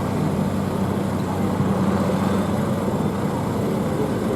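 Tractor diesel engine idling steadily at a low, even pitch.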